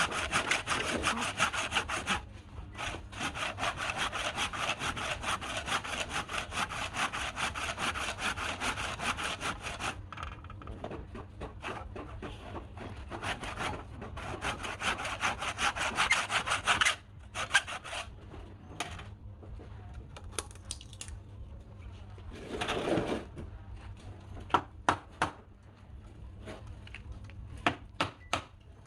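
Saw cutting wood in quick, steady back-and-forth strokes. The strokes thin out about ten seconds in, pick up again, and stop about seventeen seconds in. After that come scattered sharp knocks and clicks.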